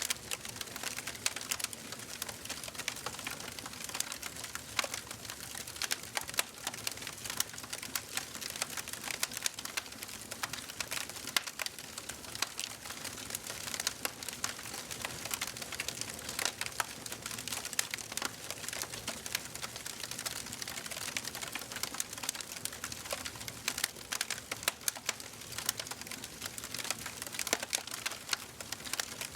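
Wood fire crackling in a fireplace: a dense, irregular stream of small snaps and pops over a soft steady hiss of burning.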